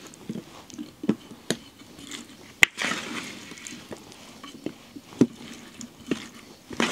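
Food being prepared by hand: scattered knocks and clicks of utensils and dishes, the sharpest about two and a half seconds in, with short splashing or pouring noises.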